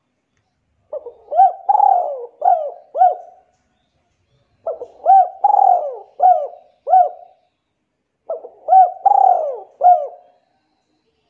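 A bird calling three times, each phrase a run of about half a dozen quick arched notes with one longer falling note in the middle.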